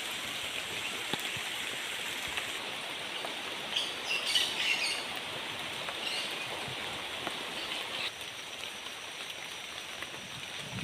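Steady rain hiss with fine pattering drops, and a bird chirping a few times about four seconds in.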